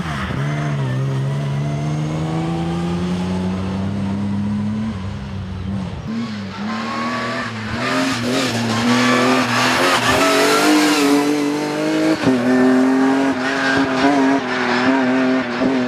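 BMW M3 rally car's engine under hard acceleration, its pitch climbing steadily for about five seconds before a gear change, then running high and loud with tyre and road noise rising in the middle and a brief lift near the end.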